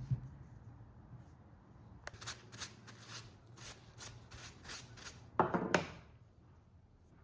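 Short scraping strokes of a hand tool working a small piece of rosewood, about two to three strokes a second, with a knock at the start and a louder, longer scrape near the end.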